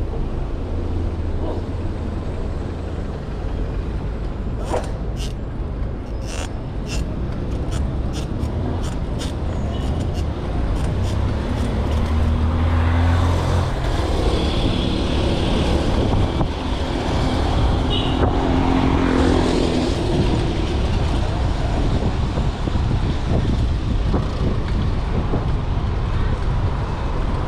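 City street traffic heard from a moving bicycle: the hum of car and bus engines close by and the noise of passing vehicles, with a quick series of sharp clicks between about five and eleven seconds in.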